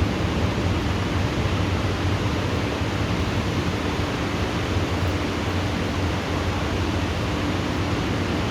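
Heavy rain falling in a steady downpour during a thunderstorm: an even, unbroken hiss with no thunderclap.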